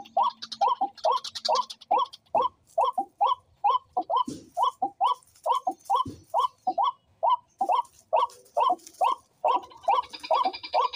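A bird calling over and over in short, arched notes, about three a second. Music comes in near the end.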